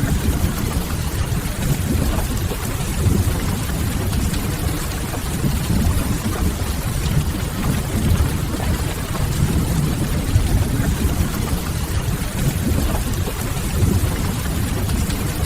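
Steady rain, with a continuous low rumble underneath it.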